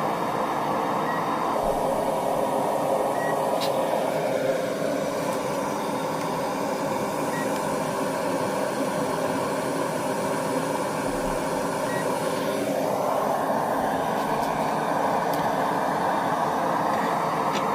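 Small knife forge running with a steady roar. Its tone drops a little about four seconds in and rises back near the end.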